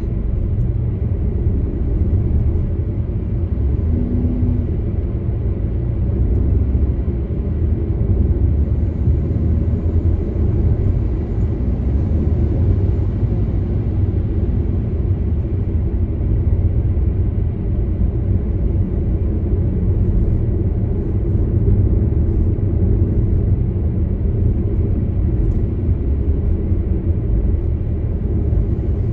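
Steady low rumble of a car driving: tyre and engine noise, with a short faint tone about four seconds in.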